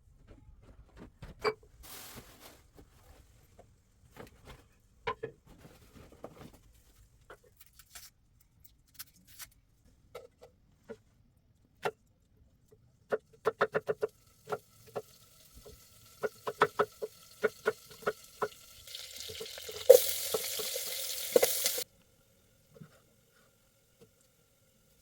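Scattered light clicks and clinks, with two quick runs of rapid taps, then a hissing noise lasting about three seconds that cuts off suddenly.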